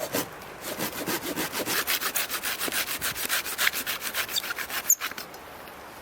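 Rapid, even scraping on wood, about five strokes a second, that stops about five seconds in.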